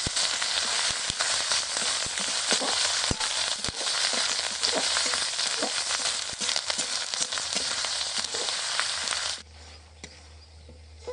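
Onions with garlic, ginger and chilli pastes sizzling and crackling in hot oil in a karai, with scattered spatter pops. The sizzle cuts off abruptly about nine seconds in, leaving a faint low hum.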